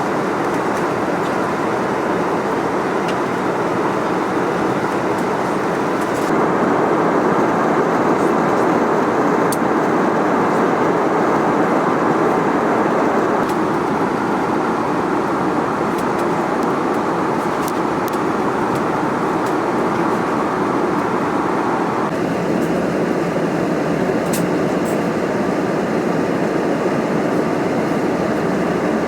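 Airbus A320 cabin noise in flight: a steady rush of airflow and engine noise. It grows a little louder about six seconds in and shifts in tone a little past twenty seconds.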